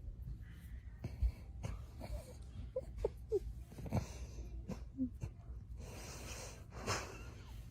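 A cat purring steadily close to the microphone, with breathy hisses, a few short squeaky chirps and small clicks.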